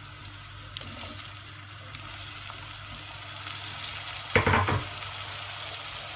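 Onions and whole spices frying in ghee and oil in a stainless-steel pressure cooker, with a steady sizzle that gets louder about two seconds in as chopped tomatoes go into the hot pan. A brief, louder sound comes about four seconds in.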